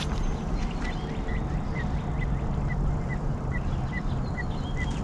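Primer bulb on a 2004 Ryobi CS30 trimmer being pumped over and over, making short squeaks about twice a second from about a second in. The bulb is not priming, so it is not drawing fuel. A steady low rumble runs underneath.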